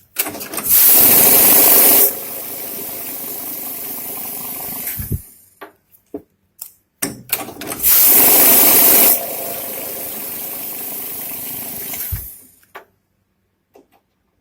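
Glory GNH-710 banknote counting machine running through two counting cycles. Each begins with about a second of loud riffling as the notes are fed through, then the motor runs on steadily for about three seconds and stops with a low knock.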